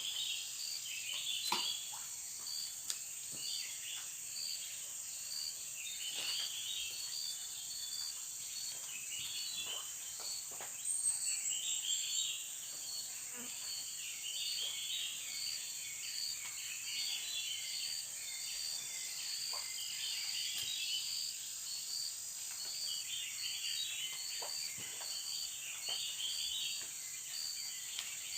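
Tropical forest insect chorus: a steady high-pitched drone, over it a call pulsing evenly a little faster than once a second, and bursts of chirping coming and going. A short falling whistle sounds about eleven seconds in, and faint small clicks are scattered throughout.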